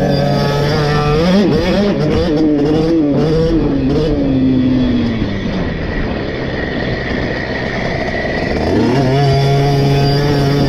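KTM SX 50 two-stroke minibike engine held at high revs, then revving up and down for a few seconds, easing off and dropping in pitch around the middle, and climbing back to high revs near the end.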